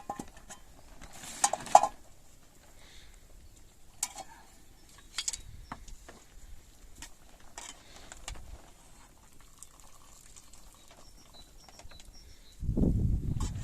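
Scattered light knocks and clicks, the loudest few close together about a second and a half in, with a low rumble starting near the end.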